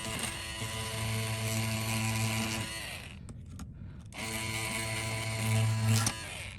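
Small handheld electric motor tool running with a steady buzzing whine, stopping for about a second around the middle, then starting up again and cutting off near the end.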